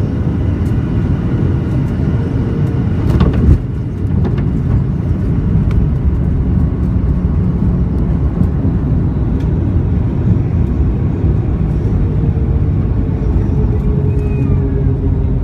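Heavy rumble of an airliner heard inside the cabin during landing, with a steady engine whine that sinks slowly in pitch near the end. There is one loud thump about three and a half seconds in.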